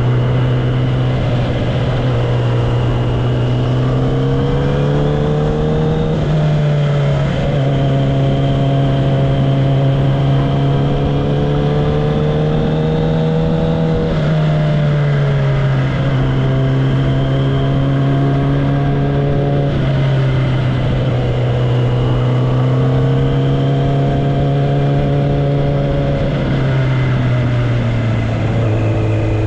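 Kawasaki ZX-10R's inline-four engine and exhaust running at moderate revs under way. The pitch climbs slowly and drops back about four times as the throttle and gears change.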